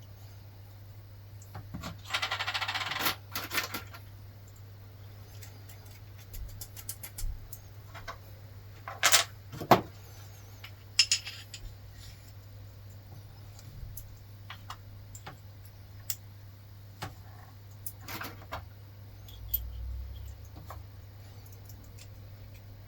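Small metal parts and hand tools clinking and being set down while VW air-cooled engine rocker gear is worked on, with a brief scraping rustle about two seconds in and a few sharp metal knocks around the middle.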